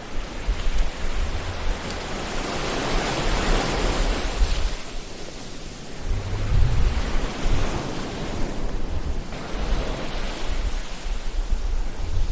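Ocean waves washing in: two slow swells of surf noise, each building over a couple of seconds and falling away, over a low rumble.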